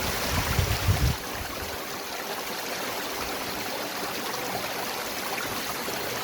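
Waterfall rushing steadily, an even hiss of falling water. In the first second a few low bumps sound over it.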